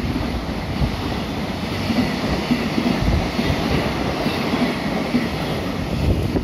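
Container wagons of a JR Freight freight train passing at speed close by: a steady, loud rumble and rattle of wheels on the rails, with irregular low knocks.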